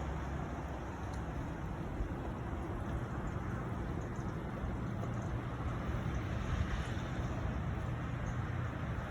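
Steady low rumbling noise with a hiss and no distinct events.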